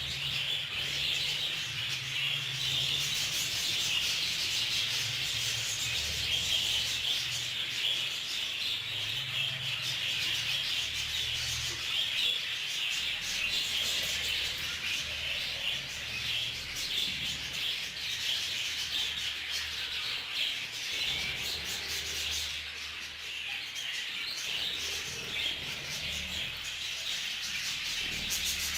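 A flock of budgerigars chattering continuously, a dense high twittering, over a low hum.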